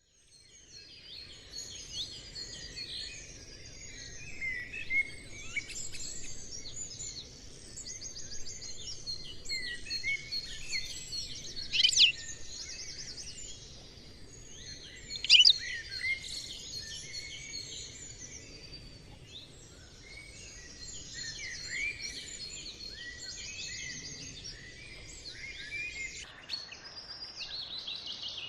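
A chorus of many small birds chirping and twittering, with two louder, sharp calls about twelve and fifteen seconds in, over faint background noise.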